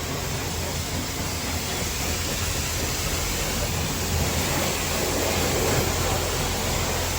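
Car-wash high-pressure wand spraying water onto a pickup truck: a steady hiss of spray over a steady low hum.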